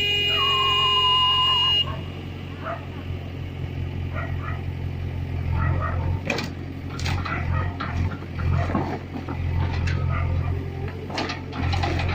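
A vehicle horn sounds for about two seconds at the start over the steady low drone of a tractor's three-cylinder diesel engine. The engine keeps running after the horn stops, with scattered knocks and clatter.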